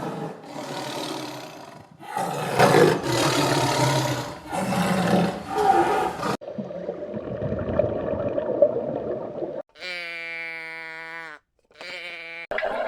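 A run of separate animal calls, one after another. The first six seconds are rough, noisy calls. About ten seconds in comes a clear, steady pitched call lasting over a second, then a short call after it.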